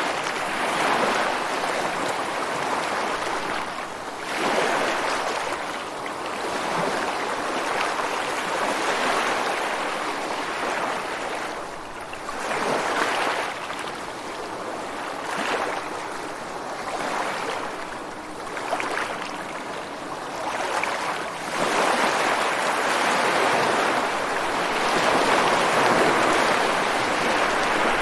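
Ocean surf breaking against rocks at the shore, a continuous rushing wash that swells and eases every few seconds, growing fuller in the last third.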